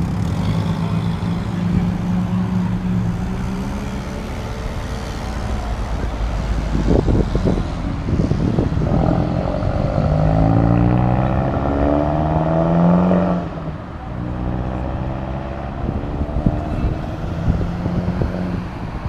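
Car engines and exhausts running at moderate revs. About eight seconds in, one car accelerates hard, its pitch rising, then lifts off sharply about thirteen and a half seconds in.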